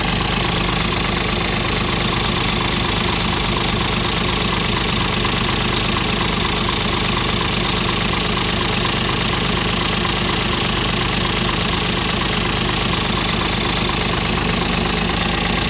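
Scania R450 tractor unit's 13-litre inline-six diesel engine idling steadily.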